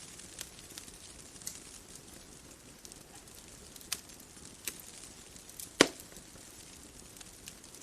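Bonfire crackling: scattered sharp pops and snaps of burning wood over a soft steady hiss, with one louder pop about six seconds in.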